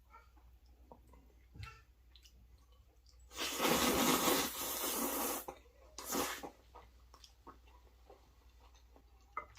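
A person slurping loudly while eating, one long slurp of about two seconds a few seconds in and a shorter one right after, with soft mouth clicks of chewing around them.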